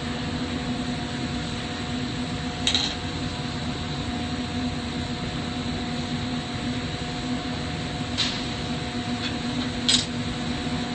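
Steady workshop hum and air noise, like fans or a cooler running, with three brief sharp clinks, about three, eight and ten seconds in.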